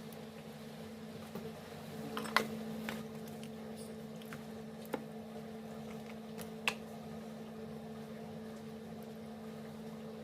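A steady low hum with a handful of short clicks and knocks, the loudest about two and a half seconds in.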